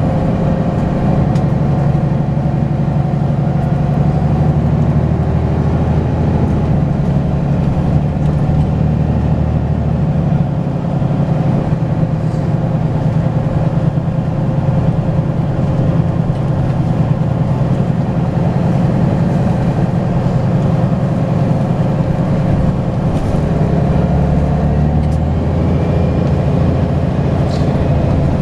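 Volvo B10BLE bus's six-cylinder diesel engine running steadily, with a faint high turbo whistle rising and falling near the end.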